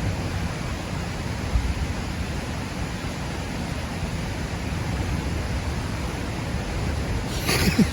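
Steady rushing noise, heaviest in the low end, with a brief voice-like sound near the end.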